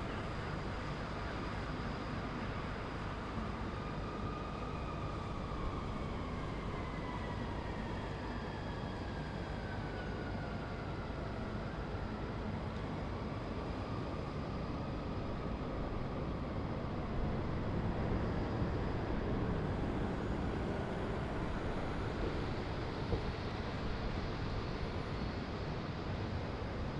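Steady hum of distant city traffic. A faint whine glides slowly down in pitch over several seconds in the first half, and the rumble swells a little in the second half.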